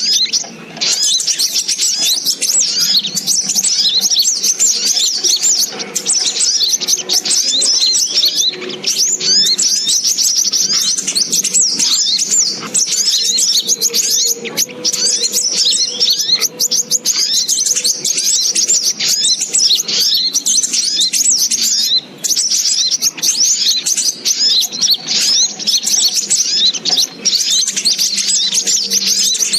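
Little spiderhunter (sogok ontong) calling: a dense, continuous stream of quick high chirps and trills with barely a pause.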